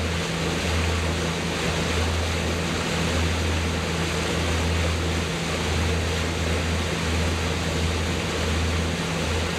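Boat motor running steadily with a constant low hum, under an even rush of water and wind noise.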